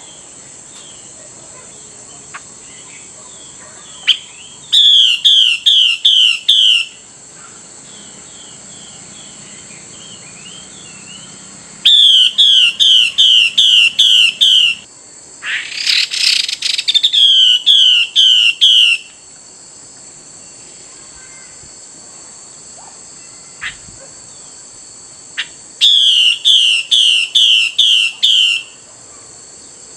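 Female Chinese hwamei calling to a male: bouts of loud, repeated down-slurred whistled notes, about three a second, four bouts of two to three seconds each. A short harsh rasp cuts in once in the middle, and a faint steady high hum runs under it all.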